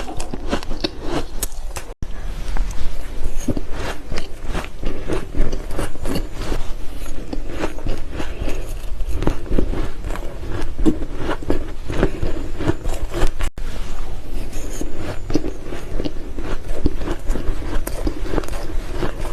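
Close-miked crunching of ice being bitten and chewed: a dense, uneven run of crisp crunches, broken by two brief dropouts, about two seconds in and again near two-thirds through.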